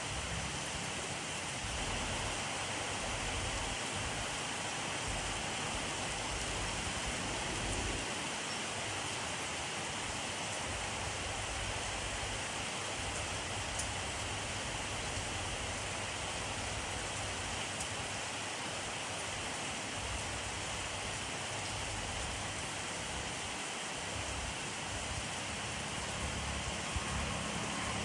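Steady rain falling and pattering on surfaces, an even hiss with scattered faint drop ticks and a soft low rumble at times.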